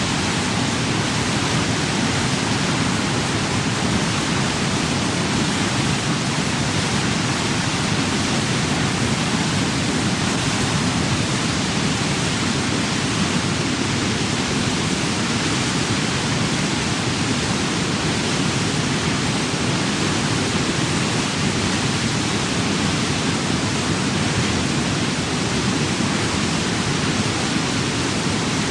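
Steady, unbroken rush of falling or flowing water, heard close and at a constant level.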